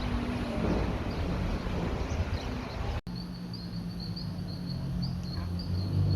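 Outdoor ambience: a broad rumble with a low tone sliding down, then, after an abrupt cut about halfway, a rapid high-pitched chirping that repeats evenly over a low steady hum.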